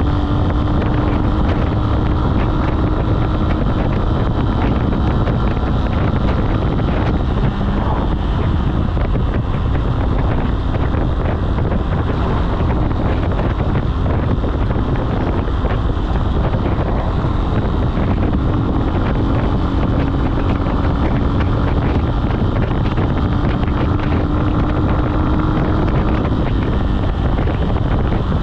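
Falat 200 cc single-cylinder motorcycle engine running at a steady cruise, with heavy wind rushing over the microphone. The wind is the loudest part; the engine's steady note shows through plainly near the start and again for several seconds late on.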